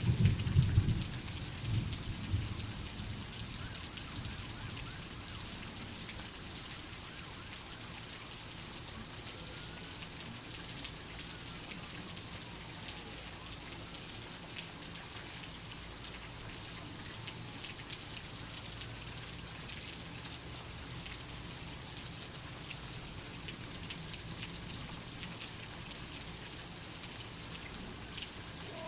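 Steady rain, with a low rumble of thunder dying away in the first couple of seconds.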